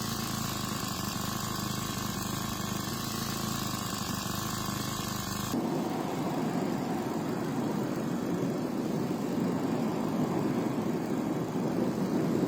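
Engine of a propeller-driven motorbike running steadily; the sound changes abruptly about five and a half seconds in and becomes noisier and a little louder.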